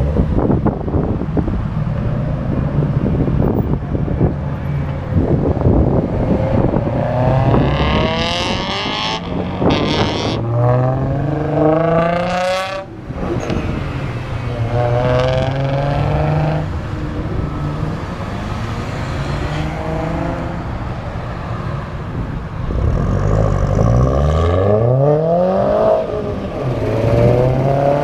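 Car engines revving and accelerating away one after another, the engine note climbing in pitch on each pull, with a long climb from a low rumble near the end. Rough, crackly exhaust rumble in the first few seconds.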